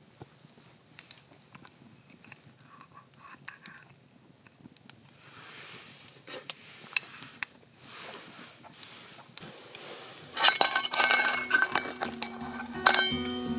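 Utensils clinking and scraping against metal cookware: faint scattered clicks at first, then about ten seconds in a loud run of sharp, ringing clinks. Background guitar music comes in near the end.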